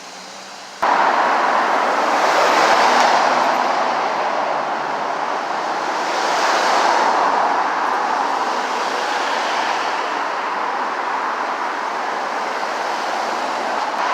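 Busy street traffic: a steady rush of cars going by, swelling a couple of times as vehicles pass. It starts abruptly about a second in.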